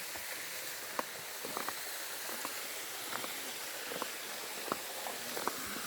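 Steady rushing of a small cascade waterfall, with a scattered run of light, short taps over it.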